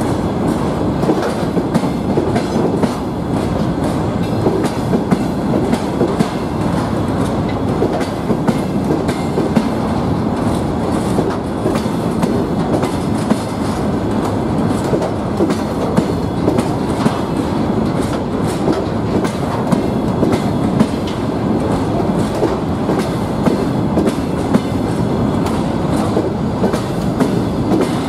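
Freight train hopper wagons rolling past close by. A steady wheel-on-rail rumble runs throughout, with the repeated clickety-clack of wheels over rail joints.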